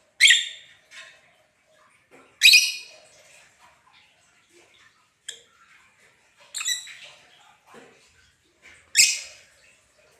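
Pet lovebirds calling: about five loud, short, shrill chirps a couple of seconds apart, with fainter chirps in between.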